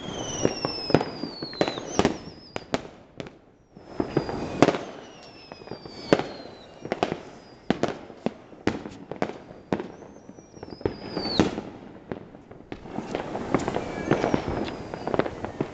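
Many fireworks going off at once, a dense, irregular run of sharp bangs, with several whistling shells whose whistles fall in pitch.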